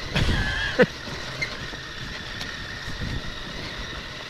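Motorcycle running steadily at low riding speed, with a brief wavering high-pitched sound in the first second.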